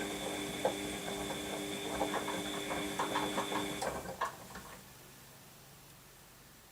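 Washing machine running, its motor humming with a steady high whine and irregular clicks and knocks from the drum. About four seconds in the motor stops, a few clicks follow, and only a faint low hum remains.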